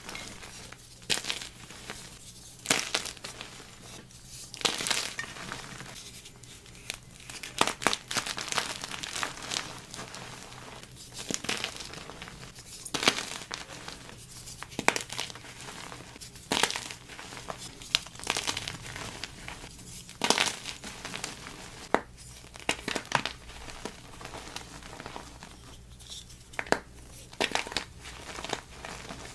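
Gym chalk being crumbled and crushed, with a crisp, crackly crunch about every second or two at an uneven pace.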